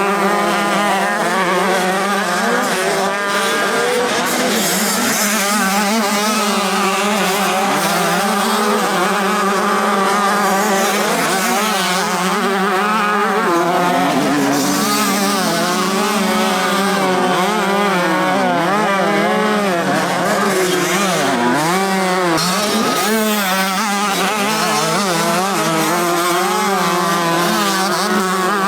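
Several motocross bikes racing, their engines revving up and down and overlapping, with one steady engine note underneath.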